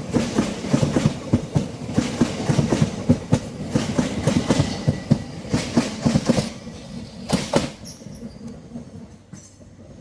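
Class 375 electric multiple unit passing, its wheels clattering in quick knocks over rail joints and pointwork. The clatter dies away about eight seconds in as the train clears.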